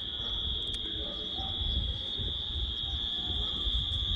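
Crickets or similar insects chirring, a steady high-pitched drone, over a low fluctuating rumble like wind on the microphone.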